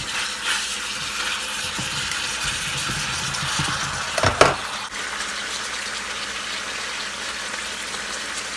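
Chicken thighs sizzling steadily in garlic butter in a pot, with one short knock about four seconds in.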